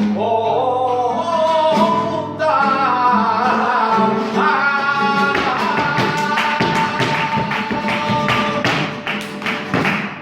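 Flamenco taranto: a voice sings long, winding melismatic lines over flamenco guitar. About halfway through, the singer holds a long note while a fast run of sharp percussive strikes comes in, easing off near the end.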